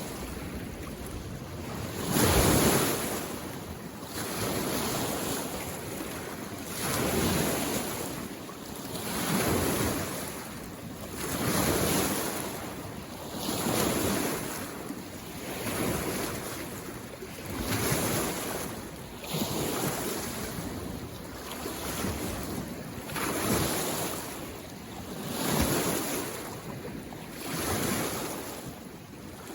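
Small mountain-lake waves washing in on the shore, one swell about every two seconds; the one about two seconds in is the loudest.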